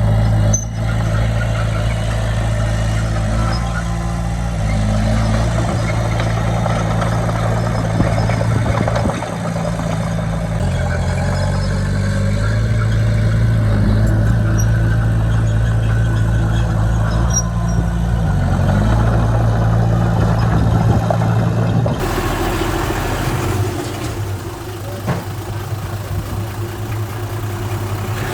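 Heavy diesel engine of earthmoving machinery running under varying load, its pitch stepping up and down several times. About three-quarters of the way through the sound cuts abruptly to a lighter, hissier engine sound.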